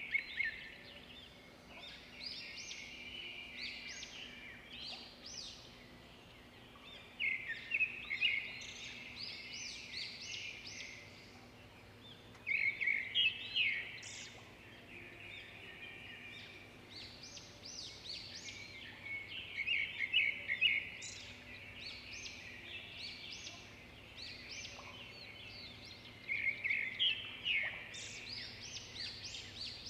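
Birds singing: bursts of quick chirps and trills every few seconds, over a faint steady hum.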